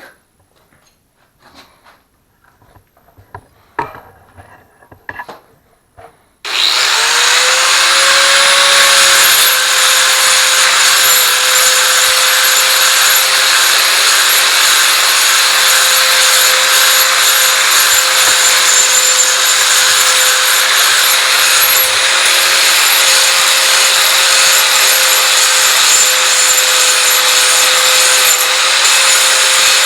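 A few small metal clicks and knocks from handling the work, then a grinder spins up about six seconds in and grinds steadily on a small cut steel triangle, cleaning up its edges, with a steady motor whine that dips only slightly under load.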